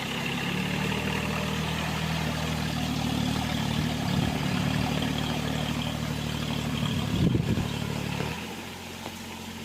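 A John Deere mini tractor's engine running steadily, with a brief loud clatter about seven seconds in. It then drops back to a quieter, lower running sound about eight seconds in.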